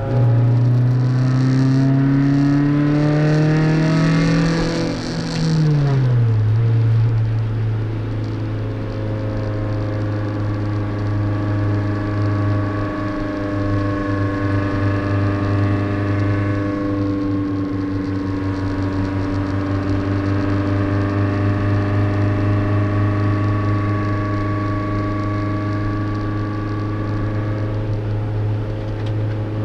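Toyota MR2's four-cylinder engine running hard: the revs climb for about four seconds, drop back sharply, then hold a steady pitch for the rest of the time.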